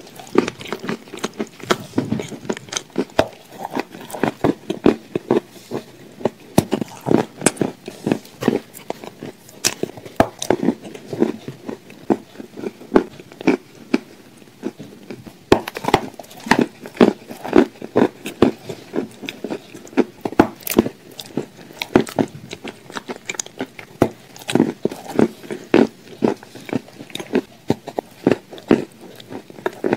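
A person biting and chewing shortbread cookies dipped in a thick spread, close to the microphone: soft crunches and many small mouth clicks, several a second.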